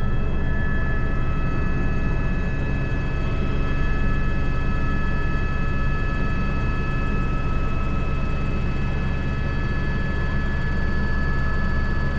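Airbus H125 helicopter running steadily in flight, heard from inside the cockpit: a constant low rotor drone with a steady high turbine whine over it.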